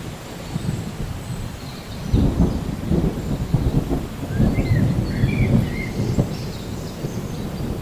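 Steady rain with a low rumble of thunder that breaks in about two seconds in, rolls on with a crackling texture for several seconds and then eases off.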